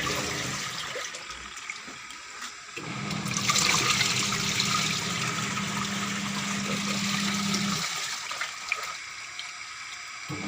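LG washing machine's wash tub churning water during a test wash: the wash motor hums steadily for about five seconds from about three seconds in, then stops, with the water sloshing throughout.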